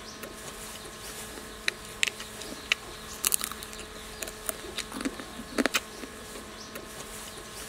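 A dung beetle being chewed: irregular sharp crunches, several bunched together about three seconds in and again around five to six seconds in, over a steady buzzing drone.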